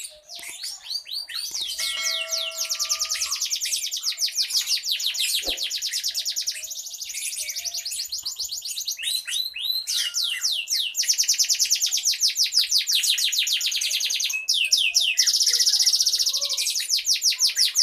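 Young lovebird singing its long chattering song (ngekek): very rapid, evenly repeated high notes in long runs, broken by short pauses about five, nine and fourteen seconds in.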